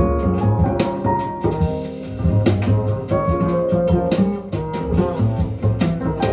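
Small-group jazz recording with double bass and drum kit, with sharp drum and cymbal strokes over walking bass and pitched melody notes, played back over hi-fi loudspeakers and picked up by a microphone in the listening room.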